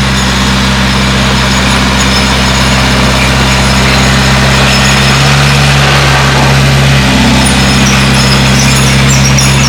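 Bulldozer's diesel engine running steadily and loudly, its pitch shifting slightly about five seconds in and again about seven seconds in.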